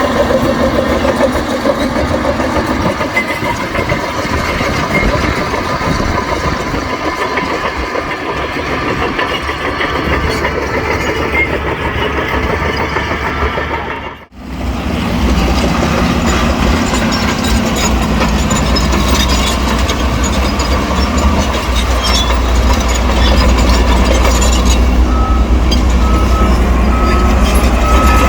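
Heavy diesel engines of a Shantui bulldozer and dump trucks running steadily while earth is moved. The sound drops out for an instant about halfway through, then comes back with a deeper, stronger engine drone, and near the end a string of short high beeps sounds, like a reversing alarm.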